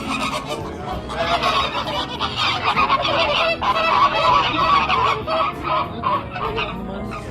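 A flock of flamingos honking: many goose-like calls overlapping in a dense chorus, building about a second in, loudest in the middle and thinning out near the end.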